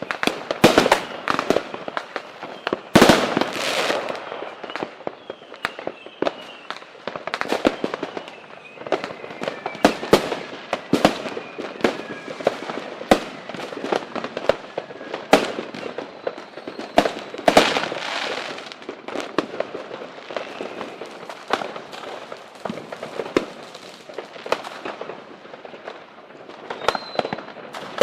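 Fireworks and firecrackers going off in a dense, irregular barrage of sharp bangs and crackles, with the heaviest volleys about 3 and 17 seconds in. Faint whistles run under the bangs.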